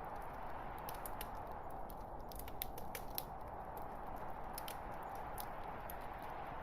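Log fire burning in a fireplace: a steady rushing hiss with irregular sharp crackles and pops scattered throughout.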